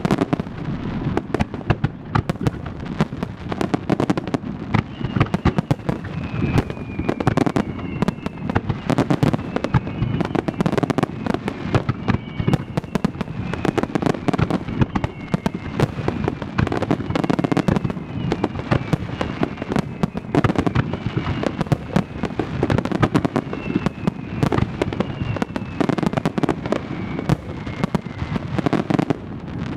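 Starmine fireworks barrage: a dense, unbroken run of shell bursts, several bangs a second. Faint short falling whistles sound again and again through the middle of it.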